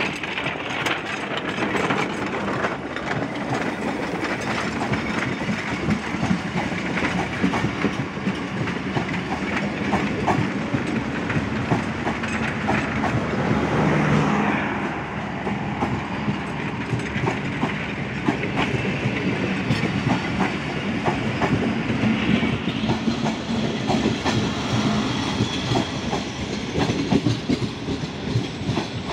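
Passenger train coaches rolling past at low speed as the train arrives at a station, wheels clicking steadily over the rail joints.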